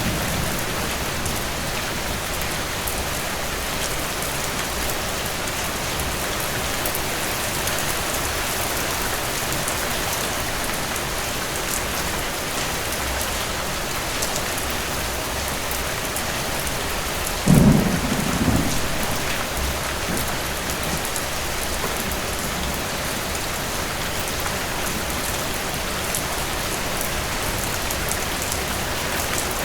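Steady rain falling, with a single short thunderclap about two-thirds of the way through: a sudden low crack followed by a brief rumble.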